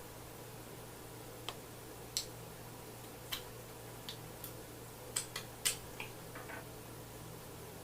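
Close-up eating sounds of fufu and okra soup being eaten: a dozen or so short, sharp wet clicks and smacks at irregular intervals, several close together about five to six and a half seconds in, over a steady low hum.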